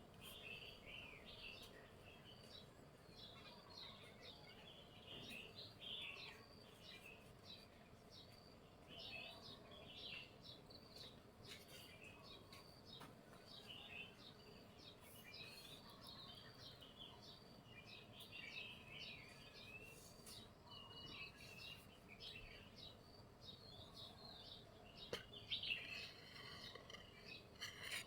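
Faint bird chirping, many short calls over quiet background noise, with a few light knocks about three seconds before the end.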